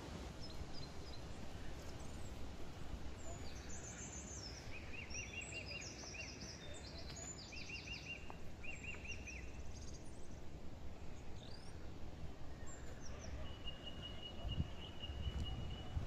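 Forest birds calling: quick runs of repeated chirping notes and scattered higher chirps, then one long held whistle near the end, over a steady low background noise.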